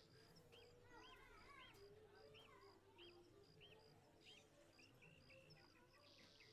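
Near silence with faint ambient birdsong: a short high chirp repeated at an even pace, and a run of small arching calls about twice a second.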